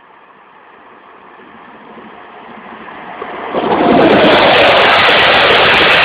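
SNCF train approaching and passing close by: a rushing rumble of wheels on rails that grows steadily louder, then holds loud and steady from about four seconds in.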